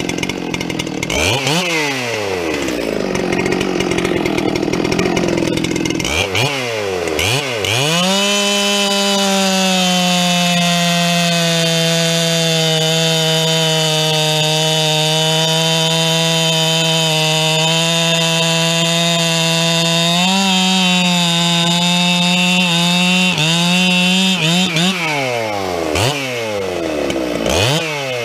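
Two-stroke chainsaw bucking firewood. The engine is revved up and down a couple of times, then held at full throttle for about twelve seconds, its pitch sagging slightly as the chain pulls through the log. Near the end it is blipped up and down several more times.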